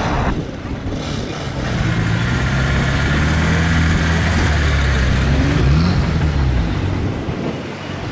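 Off-road 4x4's engine running hard under load, building about two seconds in, holding steady with a brief change in revs, then falling away near the end.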